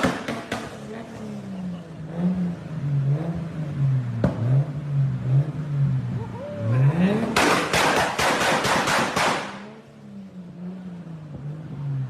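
Toyota Supra MK4 straight-six with an aftermarket exhaust, blipped and revved, its note rising and falling. Partway through, a quick rev runs up and is followed by about two seconds of rapid, sharp exhaust pops and cracks.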